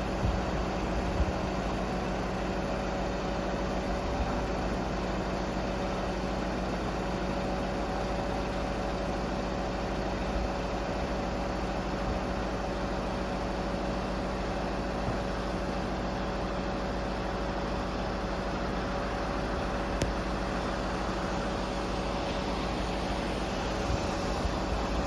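Scania R520 crane truck's V8 diesel engine running steadily at an even speed, with a constant hum.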